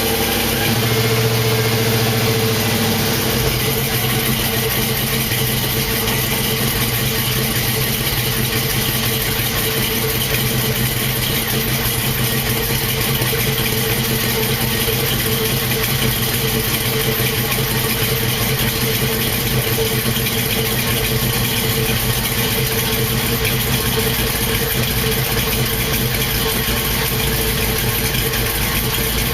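Swapped-in GM 5.3-litre V8 idling steadily through cast-iron manifolds and a freshly built 2.5-inch exhaust; its idle settles a little about three seconds in. The owner hears small exhaust leaks at the muffler clamps but judges it healthy.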